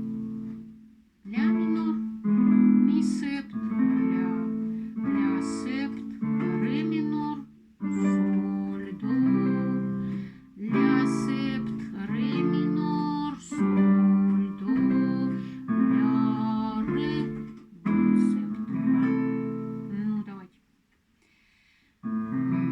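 Acoustic guitar strumming chords in a steady rhythm, with a new chord about every second. It breaks off briefly shortly before the end, then starts again.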